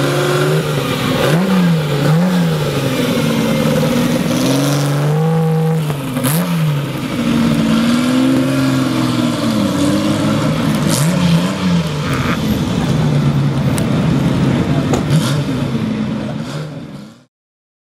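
Racing car engine accelerating hard and lifting off again and again, its pitch rising and falling through the gears, until the sound cuts off abruptly near the end.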